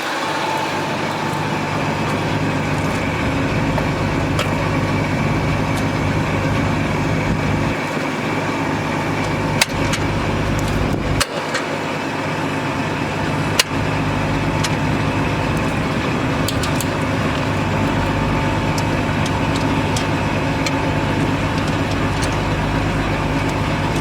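Cummins ISC diesel engine of a Freightliner M2 truck running steadily, with a few sharp clicks or knocks about ten, eleven and fourteen seconds in.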